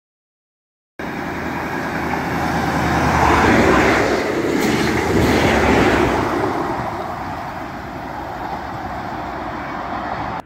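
Network Rail's yellow New Measurement Train, led by a Class 43 HST diesel power car, passing close at speed. The sound starts abruptly about a second in, then the engine and rail noise swell to a peak and ease off as the train goes by.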